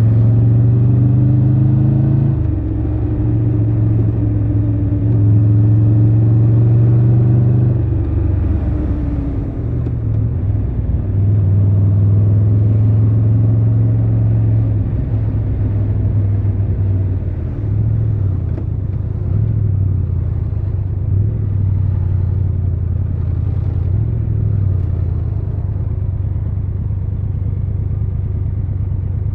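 Triumph Tiger 1200 Rally Pro's inline three-cylinder engine running under way. Its note changes with the throttle, with a clear drop in engine speed about eight seconds in.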